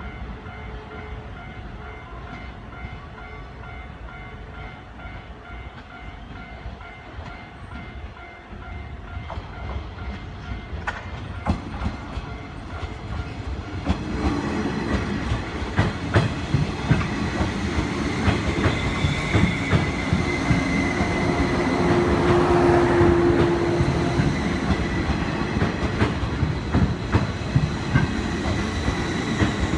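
A 185 series seven-car electric train approaching and passing over a level crossing. A crossing bell dings steadily at first, then the train's rumble builds, with its wheels clattering over the rail joints. A loud steady horn note sounds about two-thirds of the way through.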